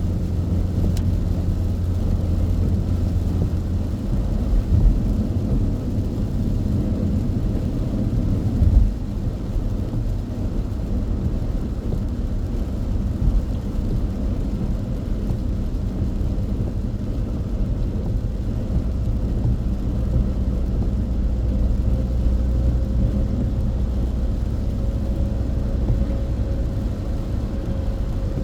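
Car cabin drone while driving at speed on an expressway: steady low engine and tyre rumble, with a couple of brief thumps, about 5 and 9 seconds in, from bumps in the road.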